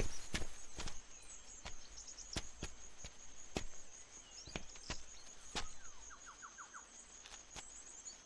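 Irregular light knocks, about one a second, like footsteps on a hard floor, over a steady high-pitched whine. About six seconds in there is a quick run of five short chirps.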